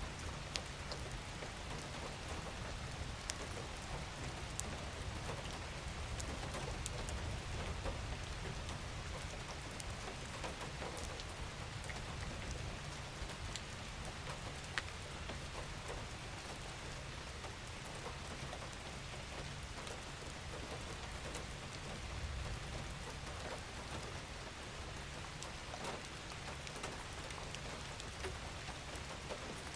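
Steady rain falling on a surface, with many small drop ticks over a soft low rumble.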